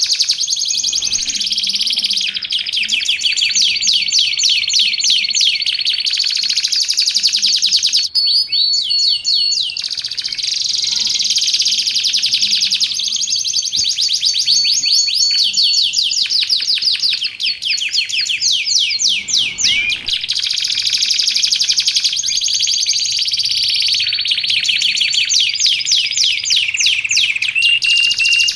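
Canary singing a continuous, fast song of rapid trills and quick repeated notes, broken by short held whistles, with hardly a pause.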